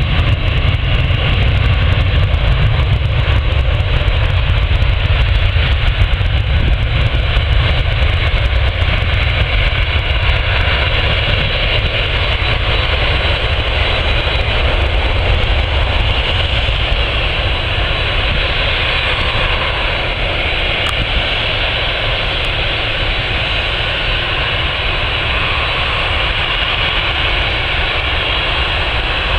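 Jet airliner engines, a steady loud rumble with a hiss above it, easing off slightly in the second half.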